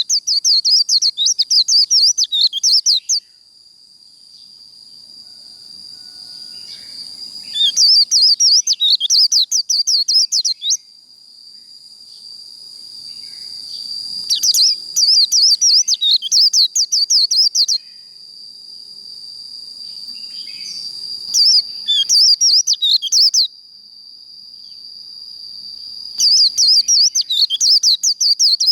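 White-eye (vành khuyên) singing its fast, twittering 'líu' song in repeated bursts of about two to three seconds, with pauses of several seconds between them. A steady thin high whine or trill sounds underneath throughout.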